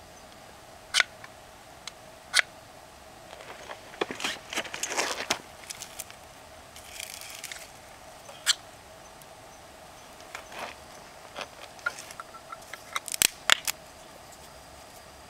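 Wood fire crackling, with scattered sharp pops and snaps at irregular intervals, a few of them loud, and a denser run of crackling a few seconds in.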